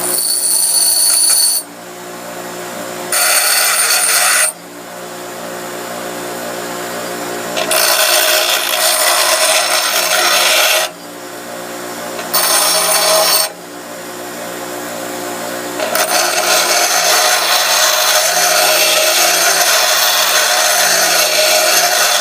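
An electric grinder running steadily, with a steel workpiece pressed against it five times; each bout of grinding starts and stops abruptly, the last and longest lasting about six seconds near the end.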